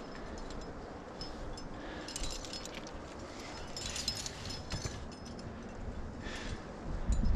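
Metal climbing hardware (carabiners and gear on a harness) clinking and jingling in scattered short bursts as a climber moves on rock, with a wind rumble on the microphone starting near the end.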